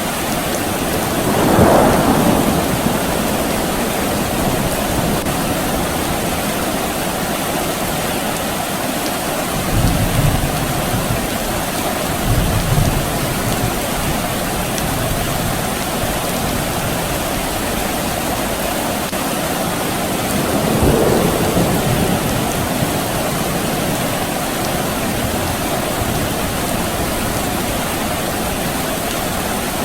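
Soft rain falling steadily, with low rumbles of distant thunder about ten and twelve seconds in, and two brief swells in the noise, one near the start and one about two-thirds through.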